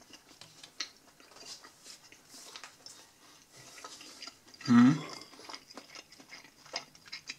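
Close-up chewing of a breaded chicken ball dipped in sweet chili dip: irregular wet smacks and small clicks of the mouth working a rubbery, chewy ball. About halfway through comes one short voiced hum from the eater.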